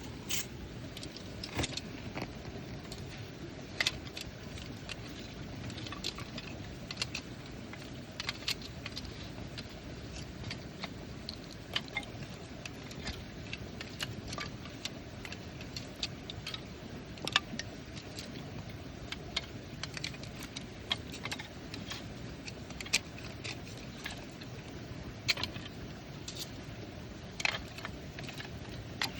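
Wood campfire crackling, with irregular sharp pops and snaps several times a second, over the steady rush of a flowing stream.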